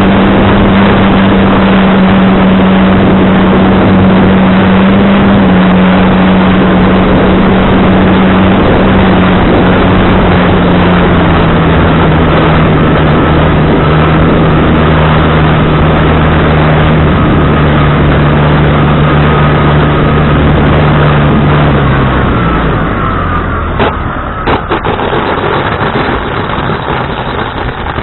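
Strong wind buffeting the microphone, with a steady low hum that slowly sinks in pitch and fades out about 22 seconds in; a couple of sharp clicks follow near the end.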